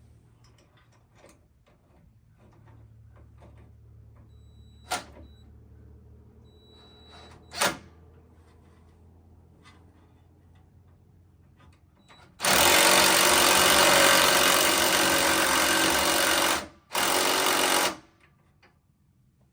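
An impact wrench rattling in two bursts, a long one of about four seconds and a short one of about a second, as it runs nuts on the steering linkage. Two sharp metal clanks come a few seconds before it.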